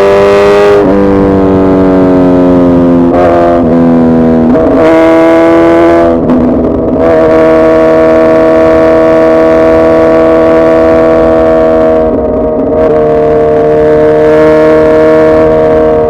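Suzuki Hayabusa's inline-four engine running loud under throttle, holding fairly steady revs with the pitch stepping down and up several times, with brief dips about six and twelve seconds in.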